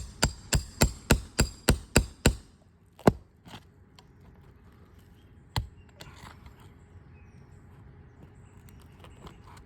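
Roofing hammer striking metal on metal, nine quick taps at about three a second, then two single harder blows a few seconds apart: the hammer driving a nail puller in under a shingle to catch a roofing nail for removal.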